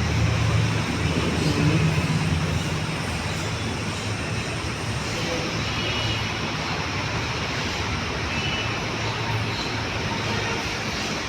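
Steady rumbling noise of a moving vehicle, with a low hum that is strongest in the first couple of seconds.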